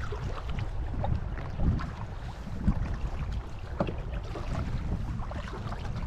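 Kayak paddle strokes in lake water: irregular splashes and drips as the blades dip and lift, over a steady low rumble of wind on the microphone.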